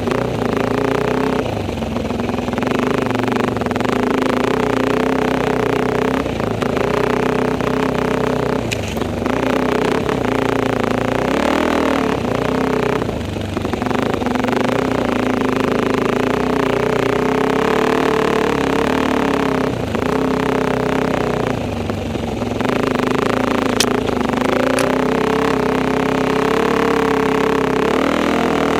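Enduro motorcycle engine running under load on a ride. The note is steady, with brief drops several times where the throttle is eased off.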